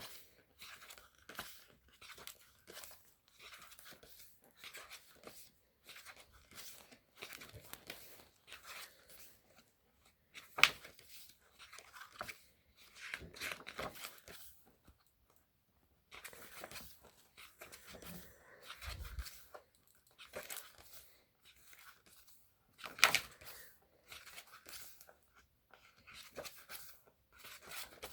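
Thick photobook pages of a K-pop album being turned one after another: a series of short, irregular paper rustles and flips, with a few sharper, louder page snaps about ten seconds in and again about twenty-three seconds in.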